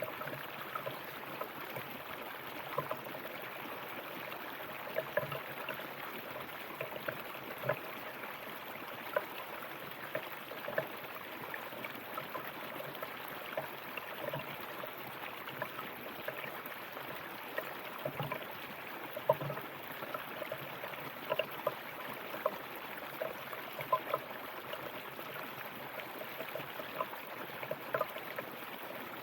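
River water flowing and gurgling over rocks, a steady rush dotted with many small irregular splashes and plinks.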